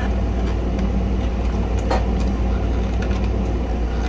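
Steady low background hum, with a single small click about two seconds in.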